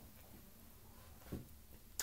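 Near silence: room tone, with one faint, brief soft sound a little past halfway and a small click at the end.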